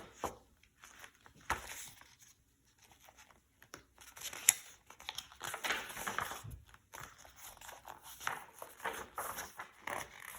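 Pages of a picture book being turned and handled: paper rustling with scattered clicks, and one sharp tap about four and a half seconds in.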